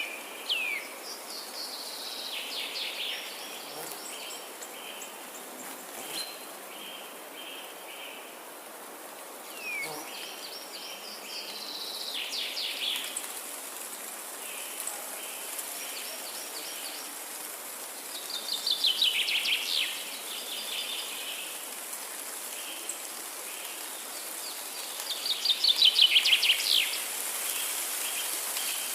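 Forest ambience of songbirds singing: several bursts of rapid trilled song, the loudest near the end, with runs of short repeated chirps in between, over a steady high faint hiss.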